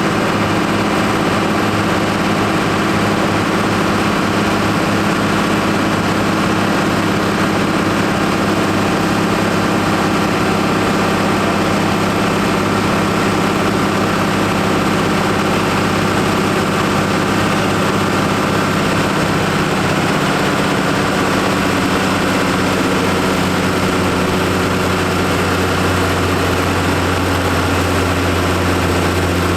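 Case Maxxum 5140 tractor's diesel engine running steadily during dynamometer testing, its note shifting slightly about two-thirds of the way through.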